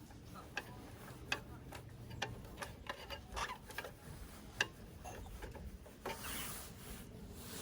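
Scattered light clicks and taps over soft rubbing and rustling, as of camping gear being handled and set in place.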